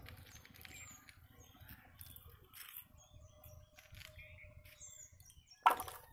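Faint high bird chirps, short falling calls scattered throughout, over quiet outdoor background. A brief louder noise, such as a knock or handling of the phone, comes near the end.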